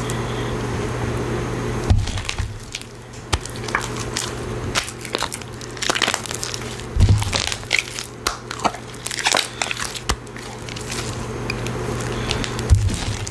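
Slime being squeezed and pulled by hand, giving irregular sticky crackles and pops that start about two seconds in, over a steady low hum.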